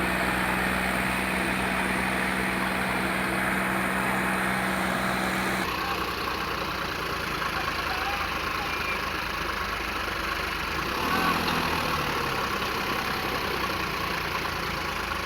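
Tractor engines running steadily under load. About six seconds in the sound changes abruptly, losing its steady hum.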